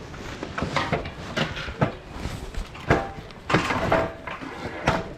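Irregular knocks and clatters of objects being handled and moved about, some with a brief ring.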